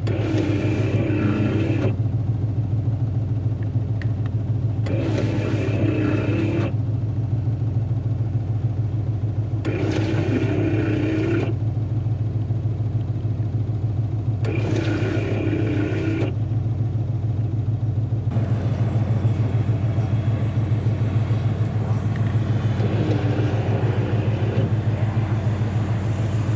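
Dodge Challenger's engine running steadily, a constant low drone heard from inside the car. About every five seconds, four times in the first two-thirds, a short sound of a second or two rises over the drone and stops.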